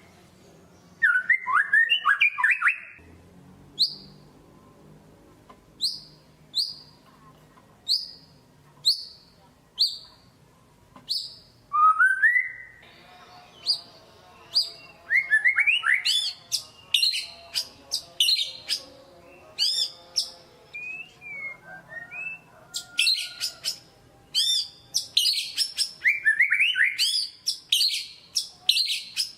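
White-rumped shama singing: a quick burst of notes, then a run of short, high single notes about one a second, then from about halfway on a dense, fast stream of varied phrases and trills.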